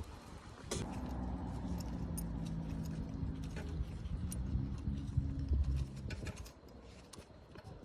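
Small metal parts clinking and tapping as a dirt-bike front sprocket and its bolts are handled, over a low steady motor hum that starts about a second in and fades out near the end.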